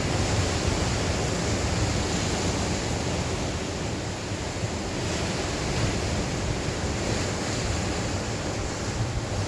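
Sea waves surging and washing on the shore in a steady, unbroken rush, with wind rumbling low on the microphone.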